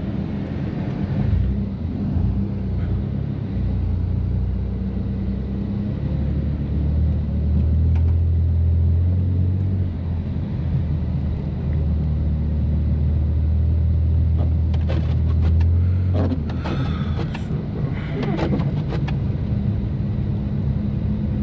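BMW F80 M3's S55 twin-turbo straight-six, with catless downpipes and an always-open valved exhaust, droning steadily at low-speed cruise. The drone eases off about sixteen seconds in, with a few short clicks or knocks around then.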